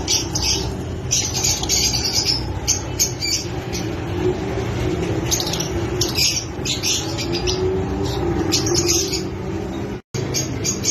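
A group of Fischer's lovebirds chirping in short, high, rapid bursts that come in clusters, with a brief cut-out near the end.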